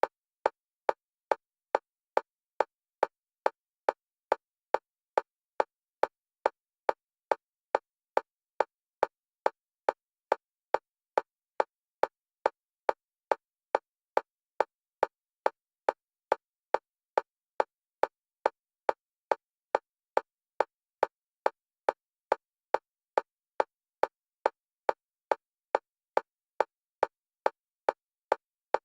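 Metronome-style click track for EMDR bilateral stimulation: short, evenly spaced clicks at a steady fast tempo and even loudness, alternating between the left and right stereo channels.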